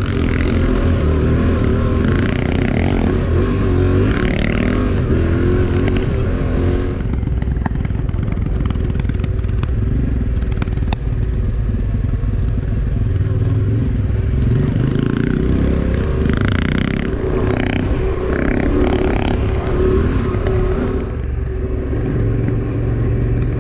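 Motorcycle engine running steadily while riding, with a constant low rumble; the sound changes abruptly a few times, about seven, seventeen and twenty-one seconds in.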